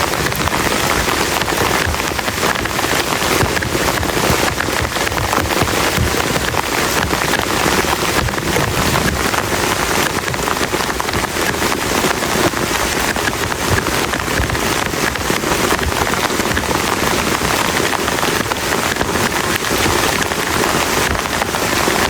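Heavy rain falling steadily, with a dense patter of drops striking close by.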